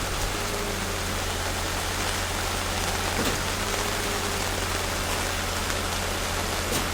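Steady rain falling on surfaces, an even hiss with a few faint drop clicks, over a steady low hum.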